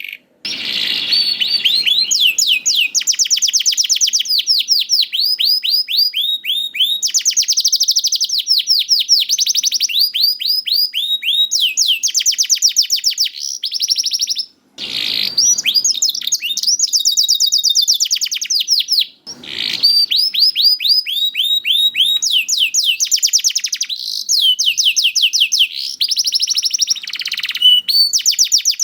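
Domestic canary singing in long rolling trills of rapidly repeated high notes, with short pauses about halfway through and again a few seconds later.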